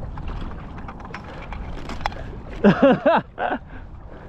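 Water sloshing as a hunter wades waist-deep. About two and a half seconds in, a man yells "hey" three times in quick succession, shouting to drive off an eagle going after a downed duck.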